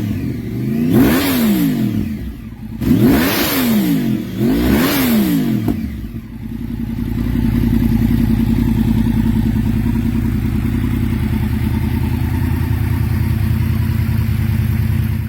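2012 Yamaha YZF-R1's crossplane inline-four through a Leo Vince SBK aftermarket exhaust, blipped three times about two seconds apart, each rev rising and falling in pitch, then settling into a steady idle.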